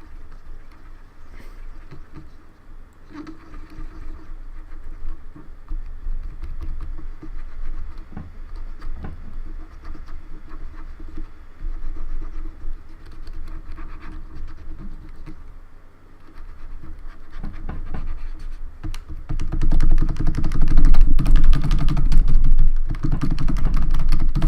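Cotton swab scratching and rubbing around the keys of a Logitech K360 keyboard, with scattered key clicks. The handling noise grows clearly louder for the last few seconds.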